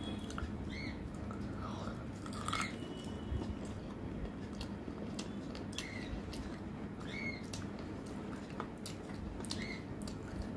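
Close-up chewing and wet mouth clicks of someone eating rice and chicken curry by hand, with fingers picking at food on a steel plate. A short high chirp recurs every couple of seconds over a steady low hum.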